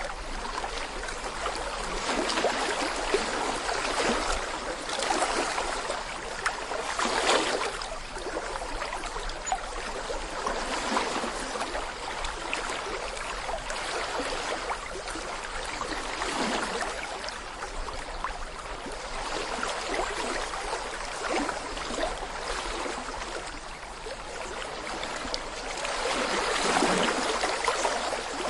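A small brook babbling over stones: steady splashing and gurgling water that swells in short louder surges now and then.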